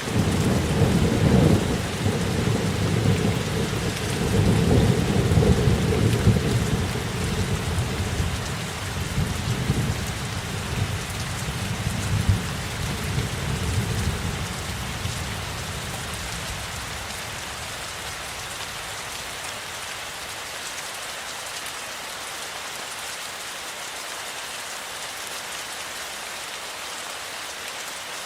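Steady rain with a long roll of thunder that breaks in suddenly at the start, swells again a few seconds in, and dies away after about fifteen seconds, leaving the rain alone.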